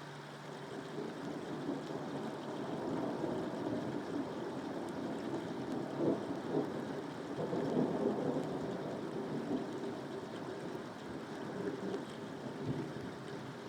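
Steady rain with a rumble of thunder that builds about a second in, is loudest midway and fades toward the end.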